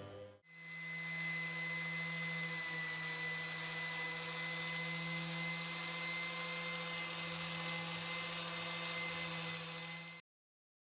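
Electric power tool running at a steady speed, an even whir with a constant hum, starting just after the beginning and cutting off abruptly about ten seconds in.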